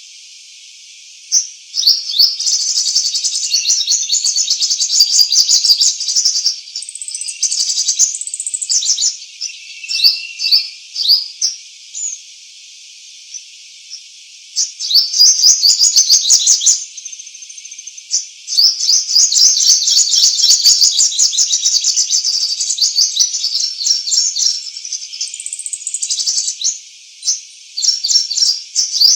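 Songbird singing long runs of rapid, high chirps and trills, with short pauses between phrases.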